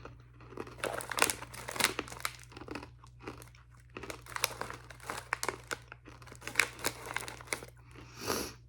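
Irregular crinkling and crackling of a plastic bag of freeze-dried candy being handled, in bursts with short pauses.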